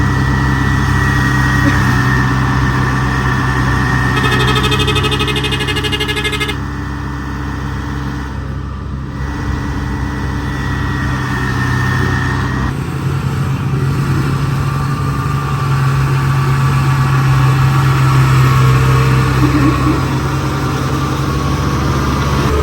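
Rice combine harvester's diesel engine running steadily under load, with a brief high rattle about four seconds in. The sound shifts abruptly about two-thirds of the way through.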